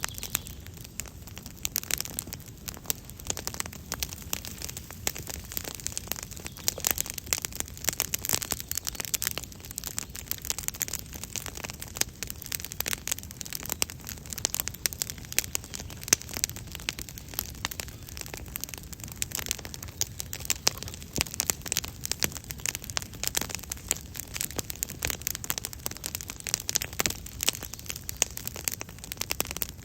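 Campfire crackling: a dense, continuous run of small pops and snaps from the burning wood, with no pause.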